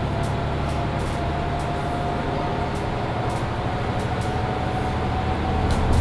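Cabin sound of a Mercedes-Benz Citaro C2 Hybrid city bus: a steady low drivetrain hum with a thin, steady whine above it.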